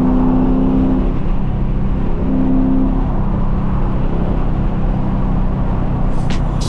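Car engine running steadily with a low drone. A brighter hum sounds during the first second and again about two seconds in.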